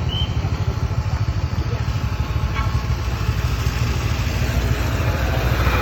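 TVS Ntorq scooter's small single-cylinder engine running steadily while riding, under a dense, even low rumble.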